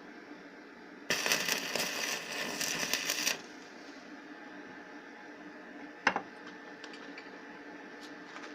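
Tesla Weld 302 inverter welder's arc crackling for about two seconds as a tack weld is laid. A single sharp knock follows about six seconds in.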